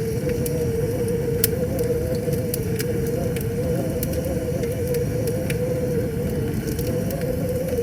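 Wood fire crackling with scattered sharp pops over a steady low rush of river water, with a wavering hum underneath.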